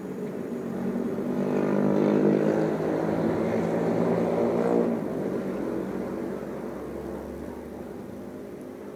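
An engine passing by, growing louder over the first few seconds and then slowly fading away.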